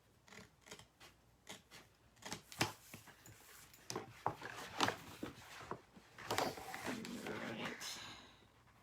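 Teflon-coated transfer scissors snipping through a silk-screen transfer sheet: a string of irregular sharp snips and clicks. About six seconds in, there is a denser stretch of rustling and crinkling of the sheet.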